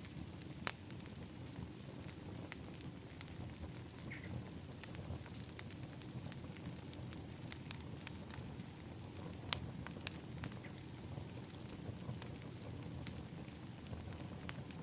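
Wood fire in an outdoor fire pit crackling: irregular sharp pops and snaps over a steady low rumble of burning, with a louder pop about a second in and another about nine seconds in.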